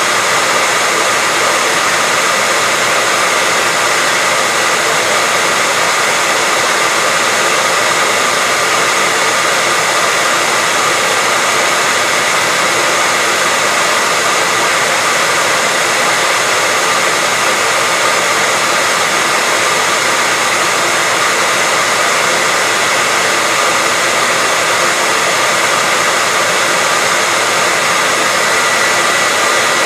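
Hair dryer running steadily: a constant rush of blown air with a steady high whine from the motor, unchanging throughout.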